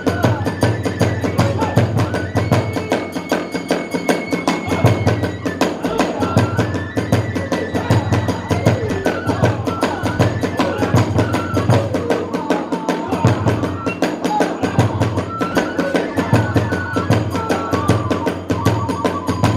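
Hiroshima kagura hayashi music: a bamboo transverse flute plays a high, held melody over fast, driving drumming on large and small drums, with clashing hand cymbals.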